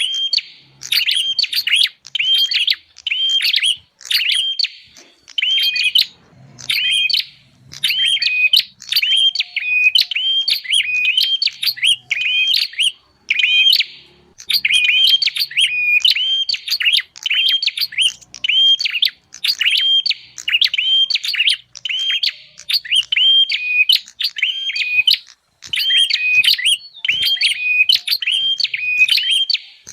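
Prenjak (prinia) call recording: fast runs of short, sharp, repeated chirps, several a second, broken by brief pauses. It is a lure track for drawing in wild prenjak.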